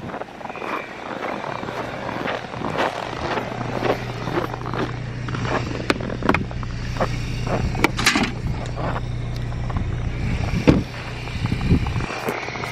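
Irregular crunching and scraping of snow against the steady low hum of a car engine idling.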